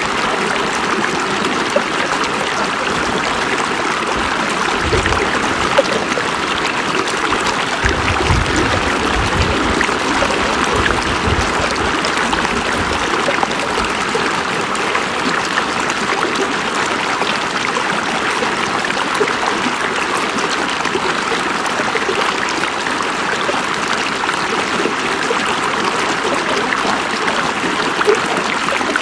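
River water flowing in a steady rush. A deeper low rumble comes and goes through the first half.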